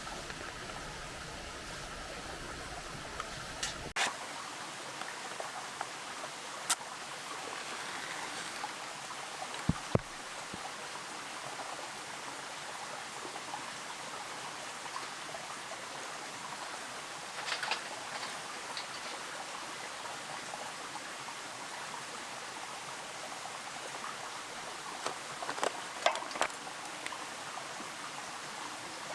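Small creek babbling steadily, with a few scattered clicks and knocks, the loudest about ten seconds in and a cluster near the end.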